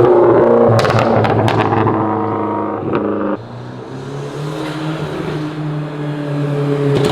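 Hyundai Genesis Coupe with an upgraded Garrett GT3071 turbo running loud under load during a tuning pull, with a quick run of sharp clicks about a second in. The engine note drops off abruptly just after three seconds as the throttle closes, then runs on lower and quieter and gradually builds again.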